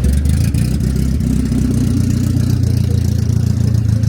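A vehicle engine running close by: a steady low rumble.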